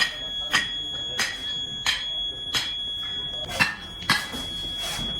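Metal striking metal in a regular rhythm, about three blows every two seconds, each with a short ring, over a steady high-pitched whine. This is the workshop sound of a motorcycle kick-start lever being worked.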